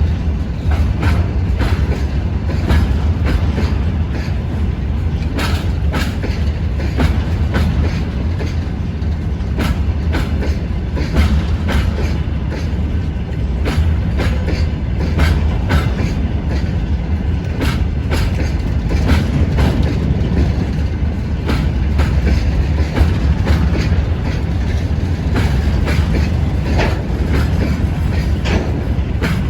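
Freight train wagons rolling past, a steady low rumble with a rapid, irregular clatter of wheels striking the rail joints.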